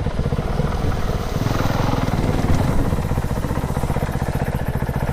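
Dirt bike engine running steadily, its rapid firing pulses even throughout.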